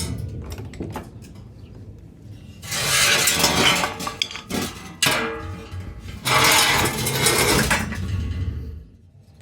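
Metal car ramps dragged out from under the front wheels, scraping and clanking on the floor in three long scrapes with a brief metallic ring between them.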